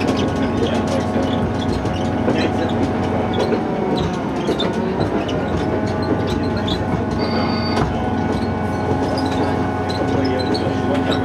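Diesel train running along the track, heard from inside a carriage: a steady engine and running hum with light rail clicks. A short high squeal comes a little past halfway and ends in a sharp click.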